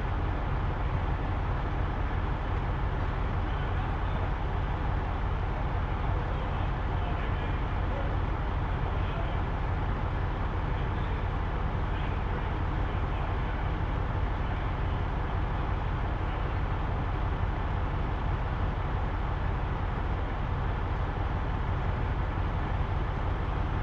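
Big-rig truck's diesel engine idling steadily, a low, even sound that does not change.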